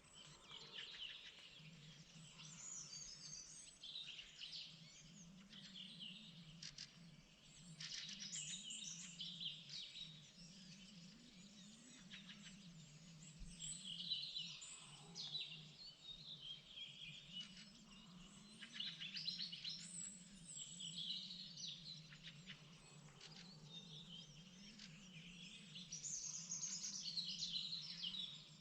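Several songbirds singing and chirping in overlapping phrases, one after another every few seconds, with the loudest stretch near the end. A faint low steady hum runs underneath.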